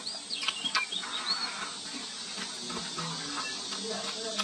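Several quick high chirps in the first second and a half, with soft clicks of chewing and chopsticks.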